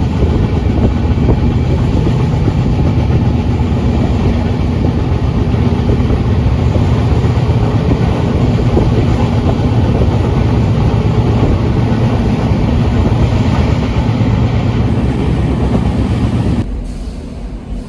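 Passenger train running along the track: a steady, loud rumble of the carriage on the rails. It drops suddenly to a quieter level near the end.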